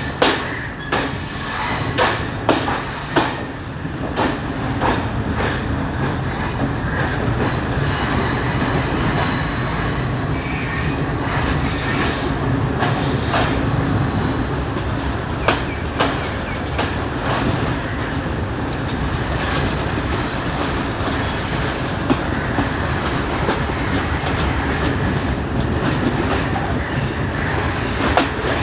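Passenger train running, heard from on board: a steady rumble and rattle, with sharp clicks of the wheels over rail joints, several in the first few seconds and a few more later.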